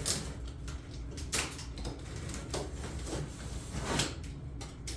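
A large box being opened by hand: irregular scrapes, rustles and knocks of the box and its packing being handled.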